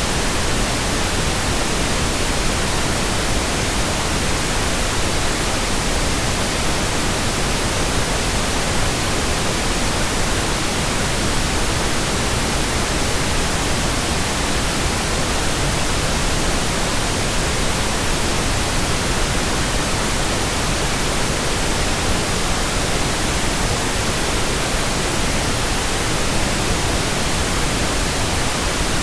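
Steady synthetic white noise: an even, unbroken hiss across the whole range, unchanging in level.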